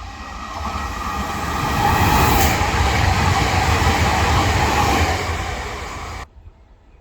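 Trenitalia 'Jazz' electric multiple unit passing at speed through a station: a rushing rumble of wheels on rail that swells, stays loud for a few seconds, and cuts off abruptly about six seconds in.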